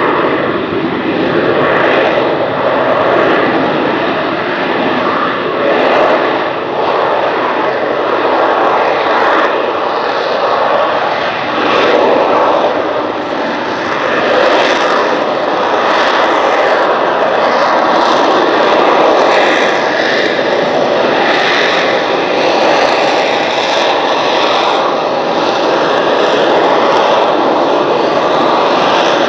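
AV-8B Harrier II jet's Pegasus turbofan engine running loud and steady, a continuous roar with a faint high whine on top that swells and eases slightly.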